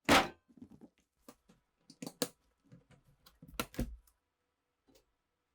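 Irregular clicks and knocks of small metal parts being handled on a work surface, typical of a rusty old pistol being picked up and worked by hand. The sharpest knock comes at the very start, with a tight cluster of clicks a little past halfway.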